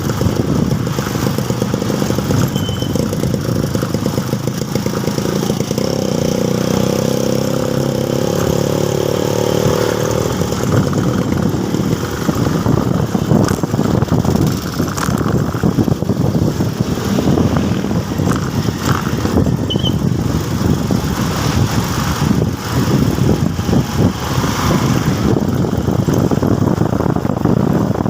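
Motorcycle engine running on the move, with steady road noise. About six seconds in the engine note rises and holds higher for roughly four seconds, then drops back.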